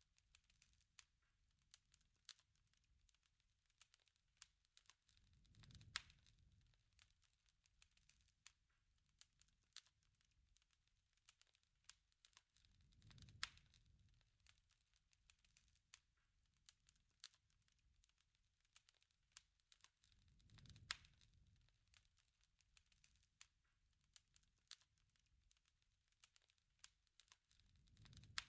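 Faint campfire crackling: scattered small pops and snaps, with a soft low whoosh swelling about every seven seconds, each topped by a louder pop.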